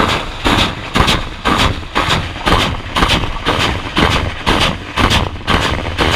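Tornado-G multiple rocket launcher firing a ripple salvo of 122 mm rockets, about two launches a second, each a sharp blast followed by a brief rush. The salvo stops near the end.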